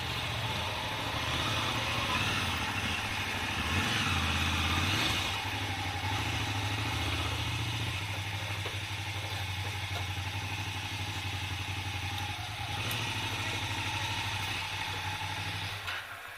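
Motorcycle engine running steadily under a rushing hiss. The engine sound stops near the end.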